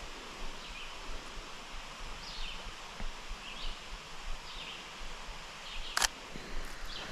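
Short descending bird chirps repeated roughly once a second over a low outdoor background, with one sharp click about six seconds in.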